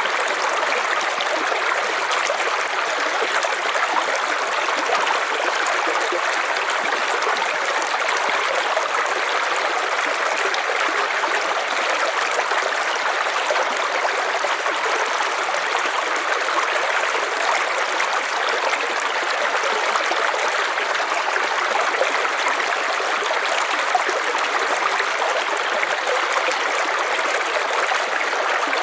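River water flowing steadily over rocks, a continuous even rushing with small trickling and gurgling detail.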